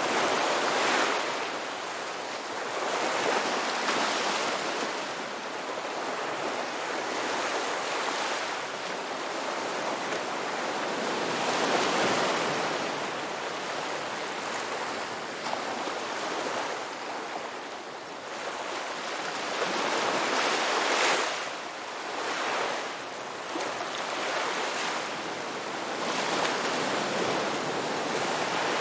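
Ocean waves breaking and washing on a beach, a steady hiss of surf that swells and falls with each wave every few seconds.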